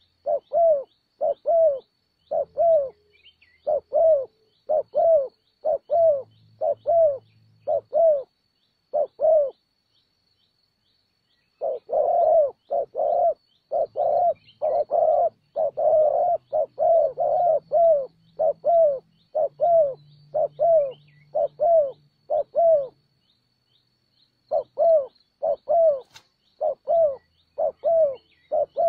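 Spotted dove cooing close by: short, rounded notes repeated about two to three a second in long runs, breaking off for a couple of seconds twice.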